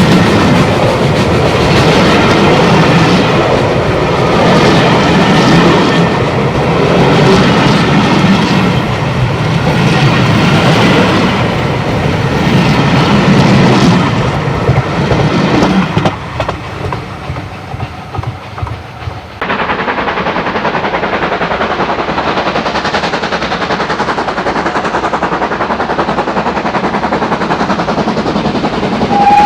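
Steam train passing at close range, loud and pulsing, then a quieter stretch of wheels clicking over rail joints for a few seconds. About two-thirds of the way in it cuts abruptly to another steady train-running sound.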